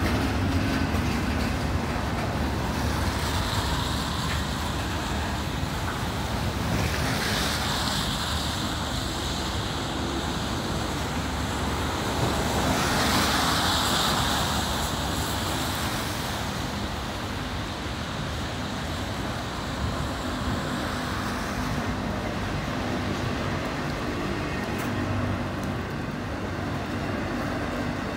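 Long freight train's cars rolling steadily underneath, a continuous low rumble. Road vehicles passing on the wet road swell and fade over it with a tyre hiss three or four times.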